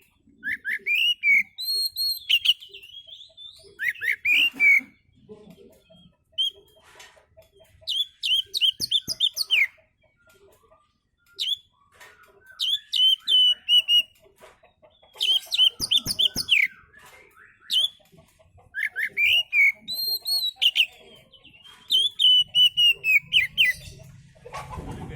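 Oriental magpie-robin (kacer) singing: repeated phrases of clear, whistled notes, some sliding in pitch, with short pauses between phrases.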